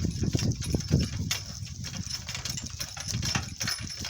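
Donkey cart jolting over rough ground: irregular knocks and rattles from the cart and its camera mount, with the donkey's hooves clopping.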